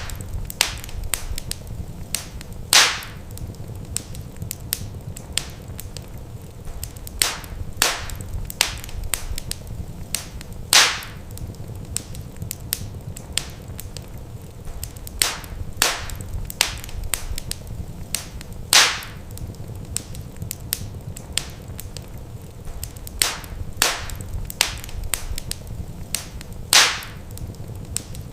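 Wood fire crackling in a fireplace: a dense run of small sharp snaps over a low steady rumble, with a louder pop about every eight seconds.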